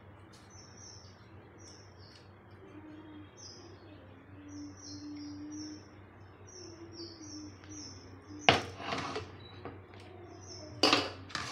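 A small bird chirping over and over, short high chirps about twice a second, with two loud clatters of metal kitchenware about two-thirds of the way through and again near the end.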